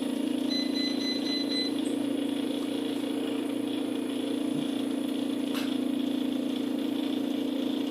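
Stepper motors of a CNC router table driving the axes through a job, with a marker drawing in place of a cutter: a steady mechanical hum, with a brief higher whine from about half a second to nearly two seconds in and a single click a little before six seconds.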